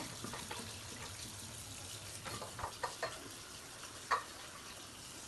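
Steady hiss of running or pouring water, with a few light clinks between about two and three seconds in and one sharper clink a little after four seconds.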